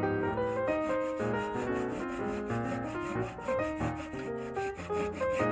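Piano background music, with quick, even rubbing strokes under it, like wood being worked by hand.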